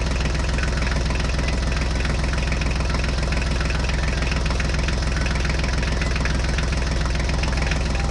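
Small engine running steadily with a rapid, even knocking: the running sound of a model walking tractor as it drives along hauling a loaded trailer.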